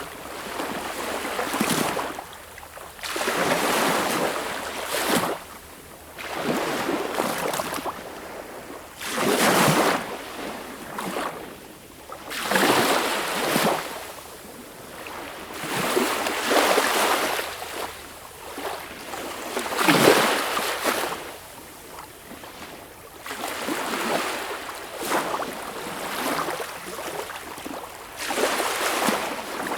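Sea waves washing in, a hissing surge of surf about every three seconds, each swelling and falling away.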